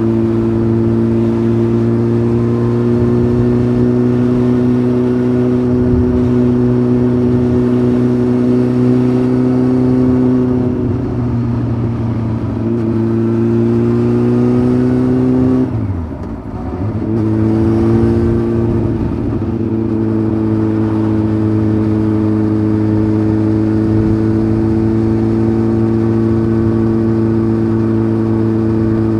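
Honda CBF 600 inline-four with a titanium sport exhaust, running steadily under way with the engine note slowly rising. About sixteen seconds in, the note drops sharply and briefly dips in loudness, then comes back and holds steady.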